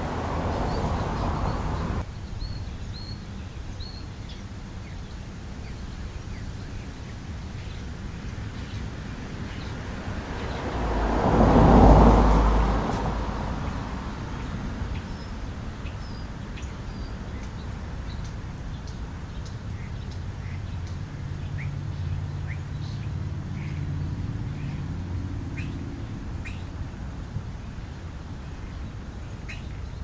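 Scattered short bird chirps. A broad rush of noise swells and fades about twelve seconds in, like a vehicle passing on the street; this is the loudest sound. A low hum comes in later on.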